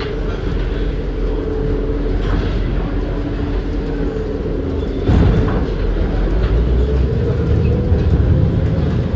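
Strong wind buffeting the microphone as a loud low rumble, with a steady drone underneath and a stronger gust about five seconds in.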